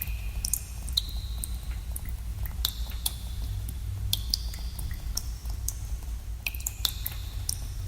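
Water drops falling in a cave, an irregular patter of sharp plinks, several a second, some ringing briefly with a clear note. Under them runs a steady low rumble.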